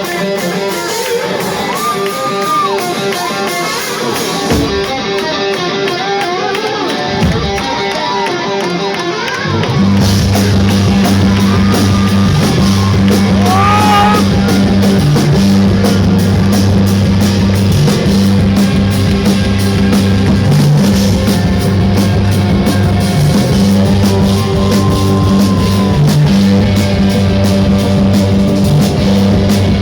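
A rock band playing live: electric guitar with wavering string bends over drums. About ten seconds in, bass and full drums come in and the band plays louder and heavier.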